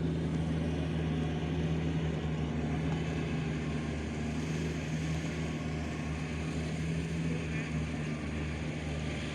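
Iseki four-wheel tractor's diesel engine running steadily at an even speed.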